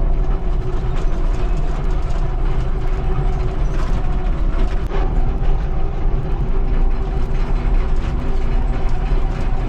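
Excavator running, with a steady deep engine rumble and a continuous metallic clatter of many small ticks and clicks from its moving steel parts.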